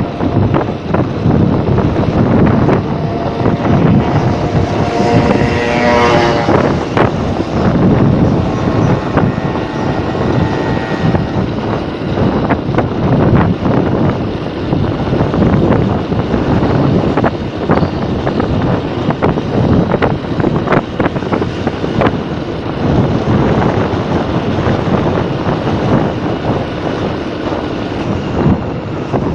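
Riding noise from a moving motorcycle: wind buffeting the microphone over engine and road noise. A pitched engine note rises for a few seconds about four to seven seconds in.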